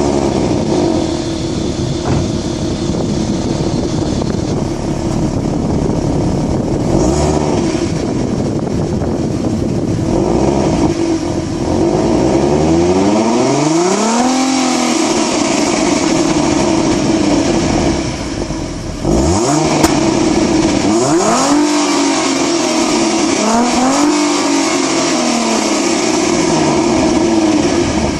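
2012 Ford Mustang's 3.7-litre V6 running through its stock exhaust, idling and revved several times, the pitch rising and falling back with each rev. The biggest revs come in the second half.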